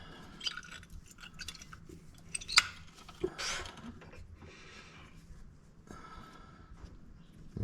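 Small metallic clicks and scrapes as a rear brake pad is worked out of its retaining clips in the caliper bracket, with one sharp click about two and a half seconds in.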